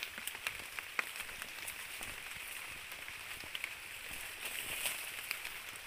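Scattered small crackles and ticks, like footsteps on dry forest leaf litter, over a steady high hiss.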